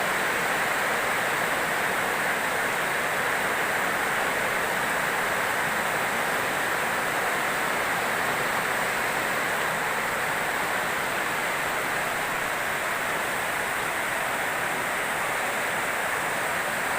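Rain falling steadily: a dense, even hiss that never lets up.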